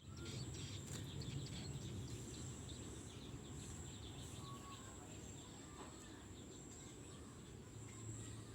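Outdoor ambience of many small birds chirping in quick short notes, over a steady high-pitched whine and low rumbling noise.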